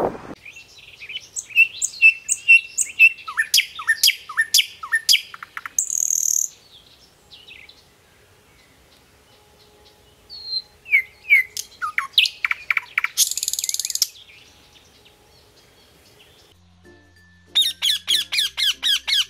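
A run of bird calls: Canada goose goslings peeping with high, falling notes, then young chicks peeping, then a macaw giving a fast series of calls near the end. Two short hisses break in among the peeps.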